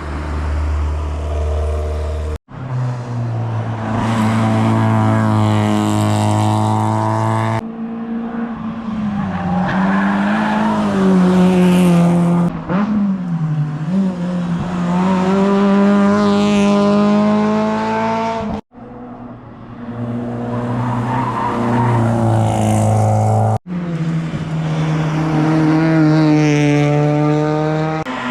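Rally cars racing flat out up a tarmac stage: engines revving hard, pitch climbing and dropping with gear changes as each car passes. Several passes follow one another, each breaking off abruptly.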